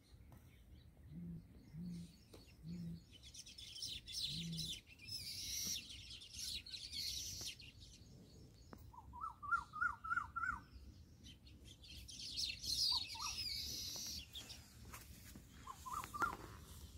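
Birds calling: a few short, low hoots in the first five seconds, two stretches of harsh, high chattering, and a quick warbling phrase repeated several times in the second half.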